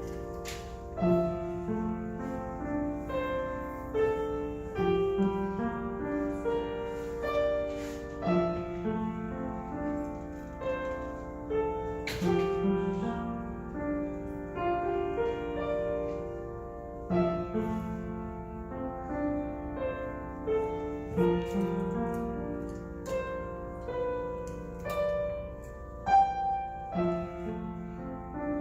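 Solo piano playing a flowing piece, a steady run of notes that ring on and overlap one another.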